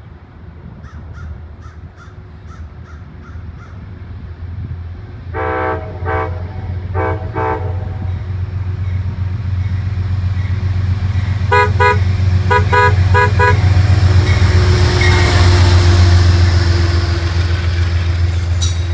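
Amtrak diesel locomotive approaching and sounding its air horn: a longer blast, a short one, then a quick series of short blasts. Its engine rumble grows steadily louder. A faint repeated ringing is heard near the start.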